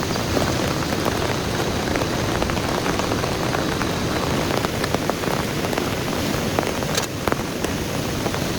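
Heavy rain falling steadily, with a dense patter of individual drops striking a surface and one sharper drop hit about seven seconds in.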